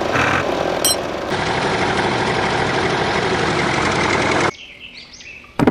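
A small motor running steadily, cutting off abruptly about four and a half seconds in.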